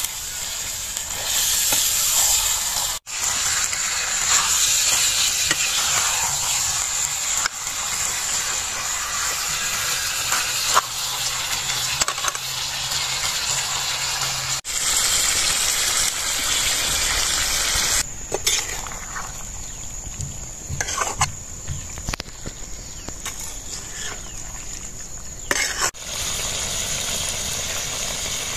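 Chicken pieces sizzling as they fry in a kadai, with a metal ladle stirring and scraping against the pan. The steady sizzle breaks off abruptly a few times.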